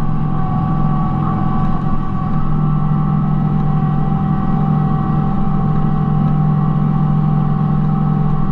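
Kubota B2650 compact tractor's three-cylinder diesel engine running steadily under work, with a constant higher whine over the low engine note.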